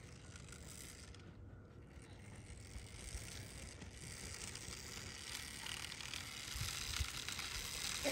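Small electric dirt bike's chain and drivetrain whirring with tyre noise as it rides closer, growing steadily louder.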